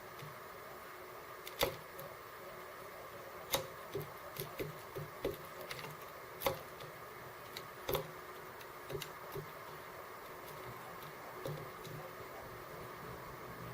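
Small birds pecking at seeds, heard as irregular sharp taps and clicks, the loudest about a dozen scattered through the first eight seconds or so, over a steady low hiss.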